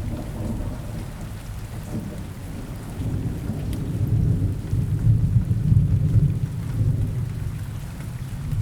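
Steady rain falling in a forest, with scattered drop ticks over an even hiss. A deep low rumble underneath swells about halfway through and then eases off.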